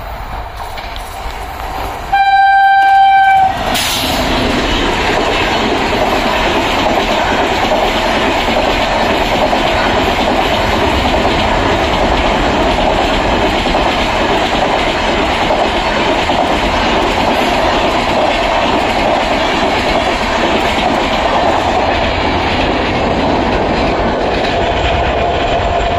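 A WAP-7 electric locomotive sounds its air horn in one loud blast of about a second and a half, a couple of seconds in. The locomotive and its coaches then pass at speed, with a steady rush of wheel-on-rail noise and clatter.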